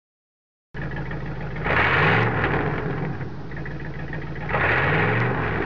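Car engine running, cutting in abruptly about a second in and revved twice, about three seconds apart.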